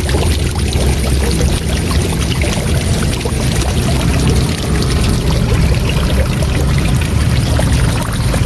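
Waterfall: a loud, steady rush of falling water with a deep low rumble underneath.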